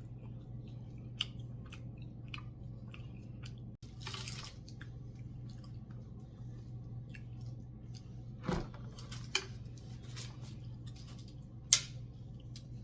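Close-up chewing of noodles and chicken: wet mouth clicks and smacks over a steady low hum, with a swishing sound about four seconds in and one loud click near the end.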